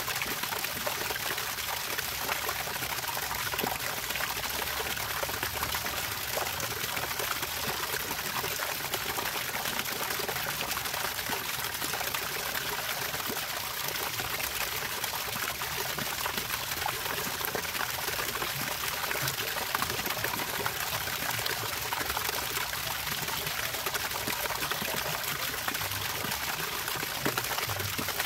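Running water, a steady even trickle and pour with no break.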